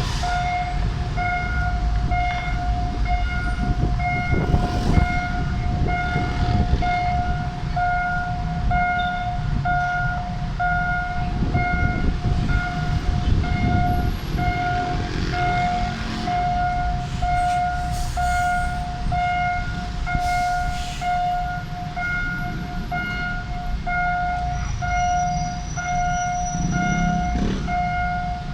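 Railway level-crossing warning signal ringing, a single electronic tone repeating about one and a half times a second without a break, over a steady low rumble of traffic or rail.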